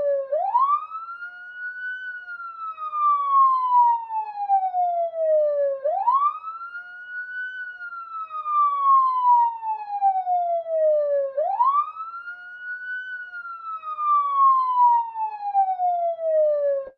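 Police siren wailing: each cycle rises quickly in pitch and then falls slowly, repeating about every five and a half seconds, three times in all. It cuts off suddenly at the very end.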